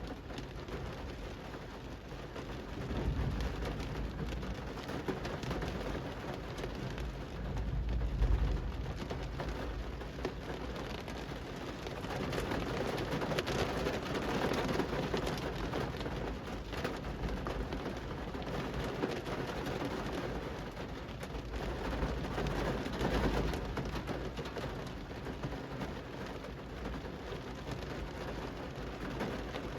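Steady rain falling on a city street, a continuous even patter, with low rumbles swelling and fading a few times.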